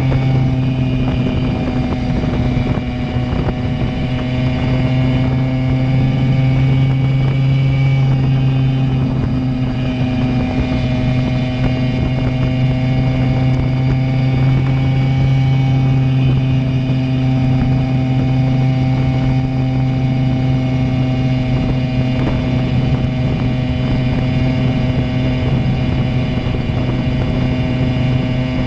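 Simson two-stroke moped engine with a JW Premium expansion exhaust, running under way at a steady, nearly constant pitch, with only a brief small dip in loudness about three seconds in.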